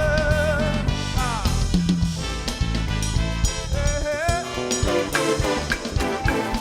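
Live gospel band music with a drum kit and bass keeping a steady groove, and a held, wavering lead note that slides down about a second in, with another sliding lead phrase about four seconds in.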